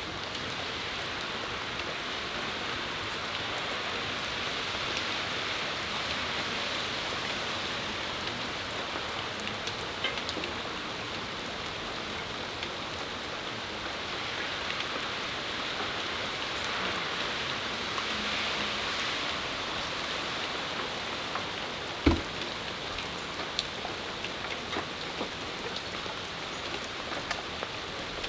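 Steady rain shower falling on a patio, an even hiss with scattered drip ticks. A single sharper tap comes about three-quarters of the way through.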